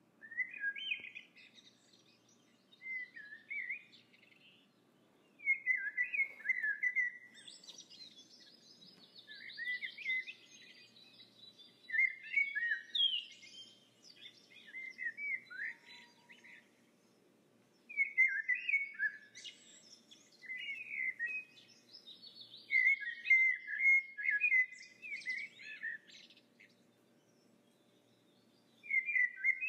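A songbird singing in short phrases of quick chirps and warbles, a few seconds apart.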